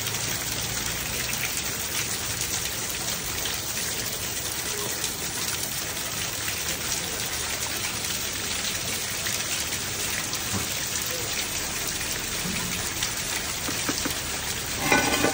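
Steady rain falling, an even hiss with a fine patter of drops. A brief voice sounds near the end.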